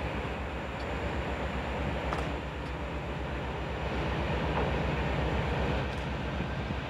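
A train running, a steady rumble with an even low throb that swells a little about two-thirds of the way through.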